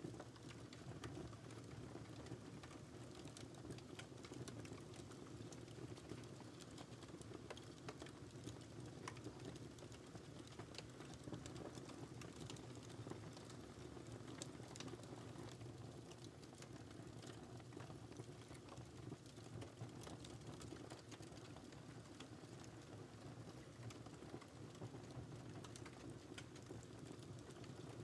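Wood fire crackling steadily, with many small irregular pops and snaps over a soft low rumble of flames.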